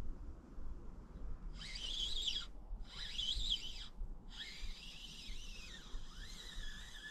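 A songbird singing: three high, warbling phrases of rising and falling notes, the last one longer than the first two.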